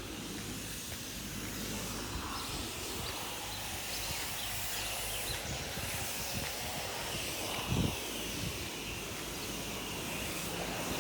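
Steady outdoor background noise, an even hiss over a faint low hum, with a brief low thump about eight seconds in.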